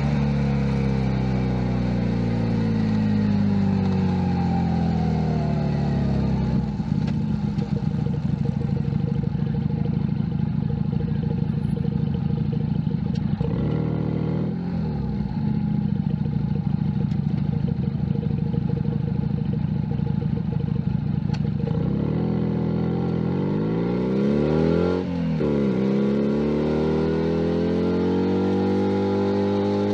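Junak M11 Cafe 125cc single-cylinder motorcycle engine. Its note falls over the first few seconds and runs low and steady through the middle, like an idle at a stop. From about 22 seconds it revs up, drops briefly around 25 seconds at a gear change, then climbs again.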